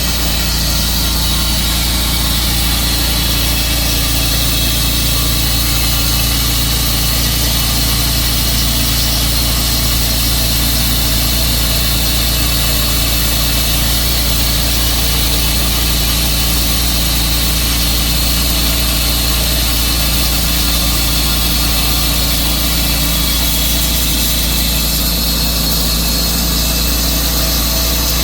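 Tru-Cut sawmill running steadily under power as it saws through a large blue pine log: a constant engine hum with a bright hiss of the blade in the wood.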